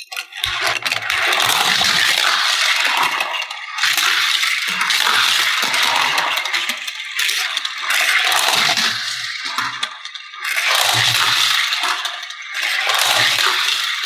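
Small hard toys clattering and rattling, in repeated spells of a few seconds with short pauses between, like diecast toy cars tumbling over plastic playset parts.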